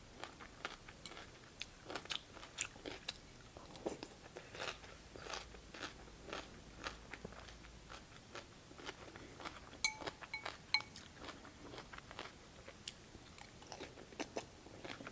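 Close-up eating sounds: crisp, irregular crunching and chewing of cucumber from a cold cucumber soup. Around ten seconds in come a few brief ringing clicks.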